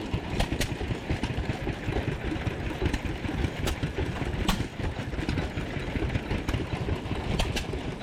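Several vintage hit-and-miss engines running at once, a dense low chugging with scattered sharp clicks.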